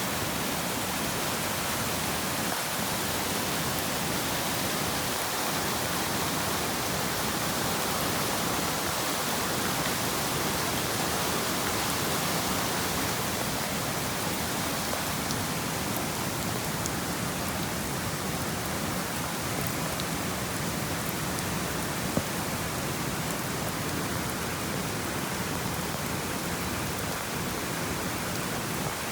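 Steady rush of water, an even hiss with no change in level, with a single sharp click about three-quarters of the way in.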